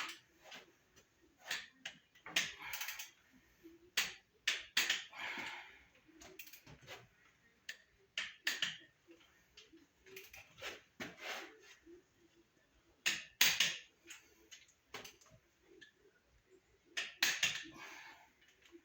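Hand tools working on an engine's valvetrain during a valve adjustment: irregular metallic clicks, taps and brief scrapes, some close together and some a second or more apart.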